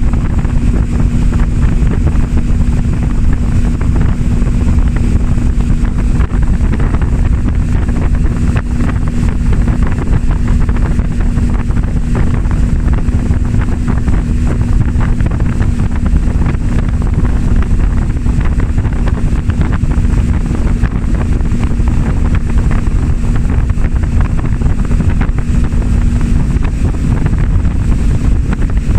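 A 300 hp Suzuki four-stroke V6 outboard motor running steadily at speed, its even engine note holding under heavy wind buffeting on the microphone. Near the end the engine note shifts slightly.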